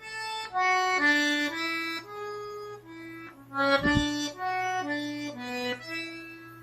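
Accordion playing a melody of single held notes one after another, with a short low thud about four seconds in.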